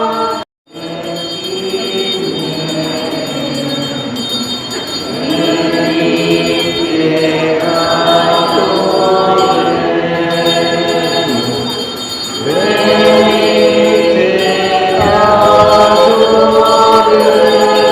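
Church choir singing a hymn, the sound cutting out for a moment about half a second in and growing louder about two-thirds of the way through.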